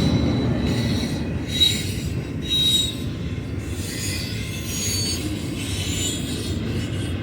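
Freight train cars rolling past with a steady low rumble, their wheels giving off intermittent high-pitched squeals, strongest about one and a half to three seconds in.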